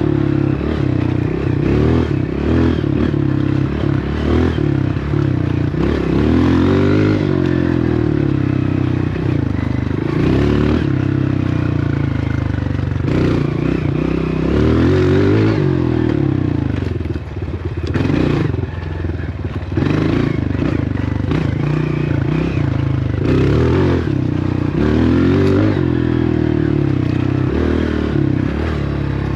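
Dirt bike engine running while being ridden, revving up and dropping back over and over as the rider accelerates and eases off, with some clatter. It eases off briefly about two-thirds of the way in.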